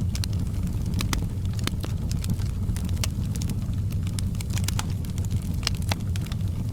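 Fire in a fireplace crackling: frequent sharp, irregular pops and snaps over a steady low rumble.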